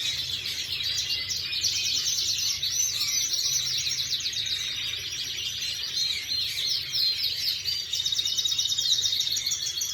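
Domestic canary singing a continuous song of rapid trills and chirps, ending in a fast, even trill.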